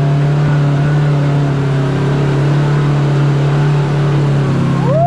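Side-by-side UTV engine running at a steady, even pitch as it drives along the trail, with a short rising tone near the end.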